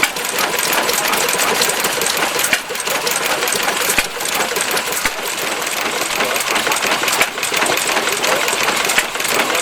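Small stationary engine running, with a fast, even mechanical clatter.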